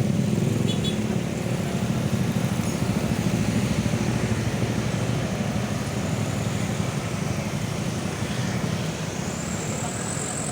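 Road traffic passing close by: a steady low engine rumble with tyre and road noise. A high thin whine comes in near the end.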